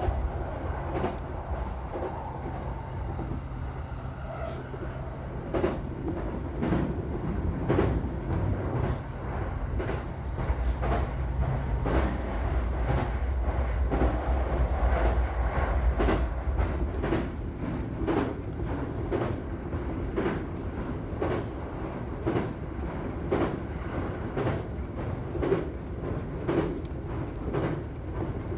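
Keihin-Tohoku Line E233-series electric train running at speed, heard from inside the front car: a steady rumble with a regular clickety-clack of wheels over rail joints. A low motor hum drops in pitch about ten to twelve seconds in.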